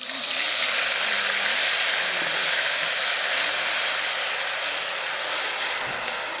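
Tomatoes, a mix of canned and fresh, sizzling loudly as they hit hot cooking oil in a pot. The hiss starts abruptly and eases slightly toward the end.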